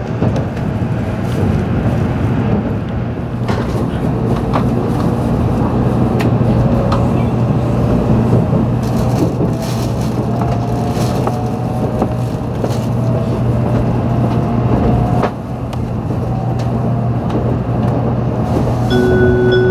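Cabin sound of an N700 series Shinkansen pulling out of a station: a steady low hum and running rumble, with the traction motors' inverter whine rising slowly in pitch as the train gathers speed. A melodic chime starts just before the end.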